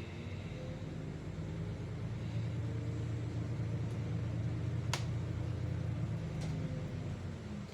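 Solaris Urbino 12 city bus running under way, heard from the driver's cabin: a low engine drone that grows louder as the bus pulls, then eases off near the end. There is a single sharp click about five seconds in.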